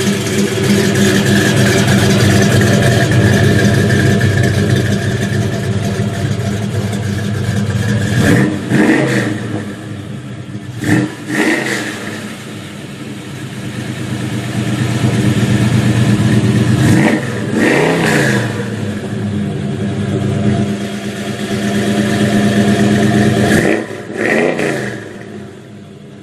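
A muscle car engine idling loudly, revved up and back down about four times, each rev a quick rise and fall in pitch.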